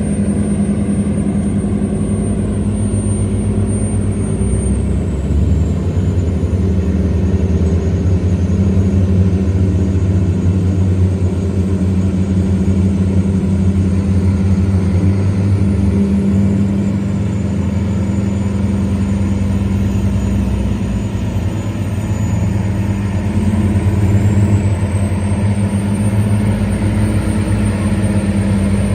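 Tugboat's diesel engine running steadily under the load of towing a cargo barge against the current. The engine note shifts slightly about five seconds in and again near the end.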